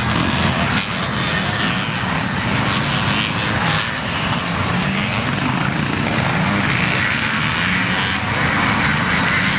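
Motocross bike engines running on the track, their pitch rising and falling as the riders throttle up and back off.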